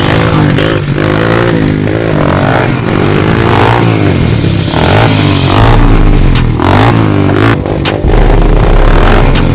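Dirt bike engines revving up and down repeatedly, under loud music with a heavy bass line.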